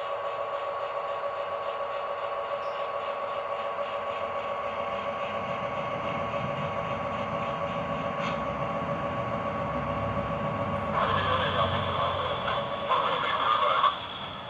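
Lionel RailSounds diesel engine sound played from a toy O gauge GP38 locomotive's small speaker: a steady hum with a few fixed tones, and a low rumble building about halfway through. Near the end come two louder bursts, the second cutting off suddenly.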